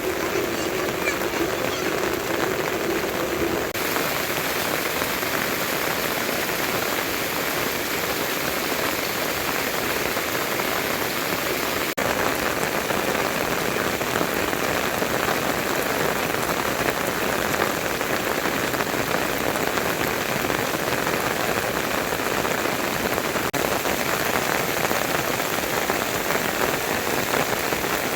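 Steady rain falling. For the first few seconds a faint low steady tone sits under it.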